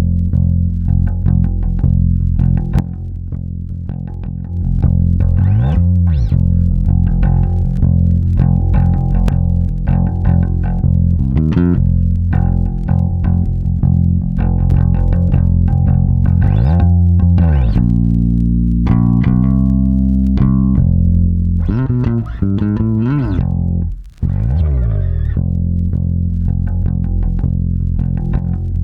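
Solo bass guitar line played through the Heritage Audio HA-609A diode-bridge compressor, with deep sustained notes and several slides between them. A run of higher notes comes about two-thirds of the way in, and there is a short gap just after.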